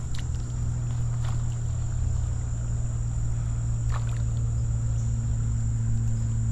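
Insects droning steadily in one high continuous tone over a steady low hum, with a few faint clicks.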